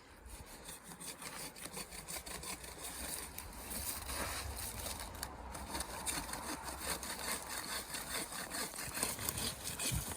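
Saw cutting through the trunk of a small Christmas tree in steady back-and-forth strokes that grow louder as the cut goes on.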